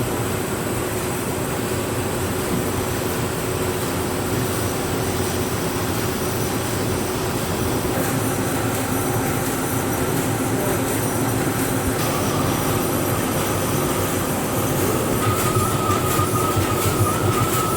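Label-printing machinery running steadily, a continuous mechanical din with a constant hum. A higher-pitched whine joins in during the second half.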